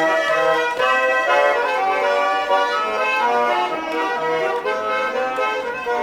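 Russian garmon (Kirillov-style button accordion) playing an instrumental interlude between sung verses: a melody over steady chords.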